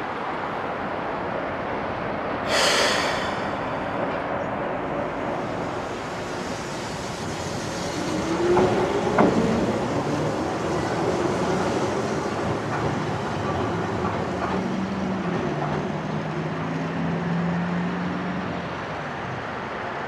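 Keihan 700-series electric train at a station platform: a short hiss of air about two and a half seconds in, then rising whines from about eight seconds in as the train gets moving, settling into a steady low hum near the end.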